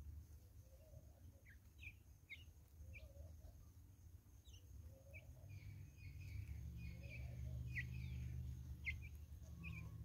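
Faint, short high bird chirps scattered through, some gliding up or down, with a fainter lower call repeating every second or two. A low rumble underneath grows louder after about six seconds.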